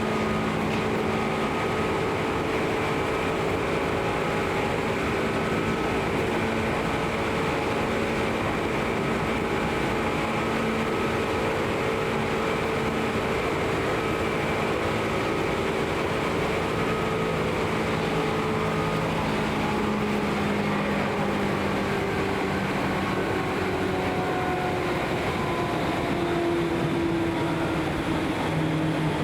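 Running noise of a Seibu New 2000 series electric train, which has field-chopper control: steady rumble of wheels on rail mixed with the hum of the traction motors. In the last several seconds the motor hum drops slightly in pitch as the train eases its speed.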